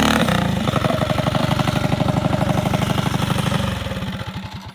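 Minibike's small single-cylinder engine running loud and close with a rapid pulsing exhaust note. Near the end the firing slows, the note drops, and then it winds down.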